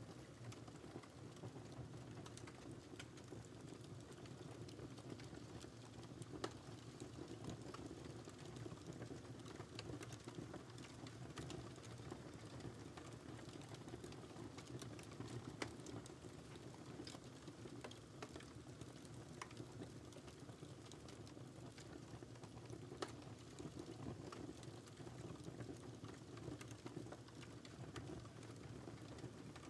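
Wood fire crackling quietly: a steady low rumble of burning with scattered sharp pops and snaps, a few louder than the rest.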